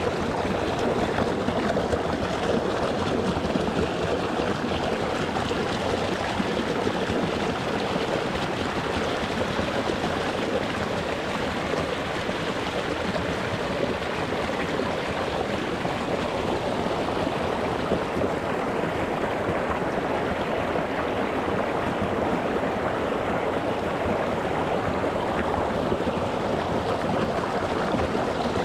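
Shallow rocky mountain stream flowing and splashing over stones: a steady, even rush of water.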